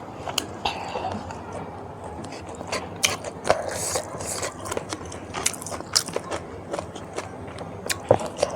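Close-up mukbang eating sounds: a person biting and chewing food, with irregular wet clicks and crunches.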